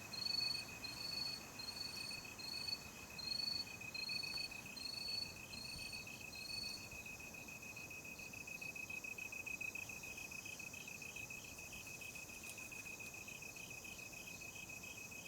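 Night insects, crickets, calling: a steady high pulsing trill throughout, with a second, higher chirp repeating a little more than once a second that stops about halfway through.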